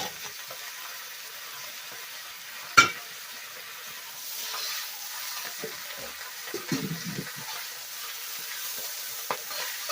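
Chinese broccoli stir-frying in hot oil with ginger and garlic: a steady sizzle. There is a sharp knock about three seconds in, and scraping stirs in the second half.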